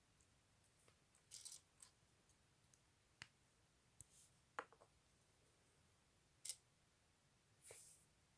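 Faint, scattered clicks of plastic LEGO pieces and brief rustles of plastic packaging being handled.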